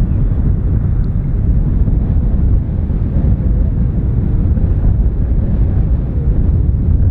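Airbus A330-243 airliner with Rolls-Royce Trent 700 engines landing close by: a steady, loud, deep jet rumble, with wind buffeting the microphone.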